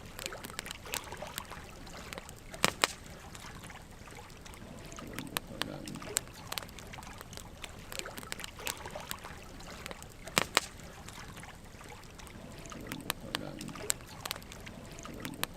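Burning logs crackling, with a steady run of small sharp snaps and two louder pops, one a few seconds in and one about two-thirds through.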